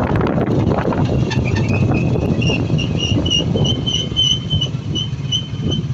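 Motorcycle riding, a steady low engine and wind rumble that eases off at the very end. A thin high-pitched chirp pulses about three times a second over it from about a second in.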